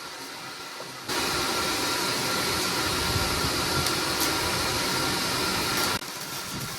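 Welding arc burning in one steady run of about five seconds. It starts suddenly about a second in and cuts off sharply, over a quieter steady background noise.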